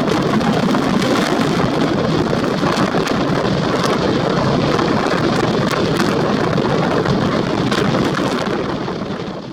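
Storm wind and rough sea over the strait: a dense, steady rush of noise that fades out near the end.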